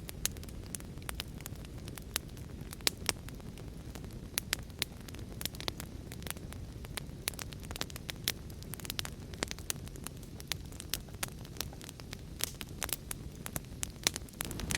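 Wood fire crackling, with frequent sharp irregular pops, over a steady low wash of heavy rain. The low wash swells slightly near the end.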